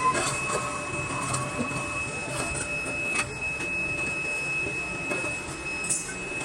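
Workshop machinery working metal for a truck brake drum: a steady high whine with scattered sharp metallic clicks, one louder click about three seconds in. A second, lower tone fades out about two seconds in.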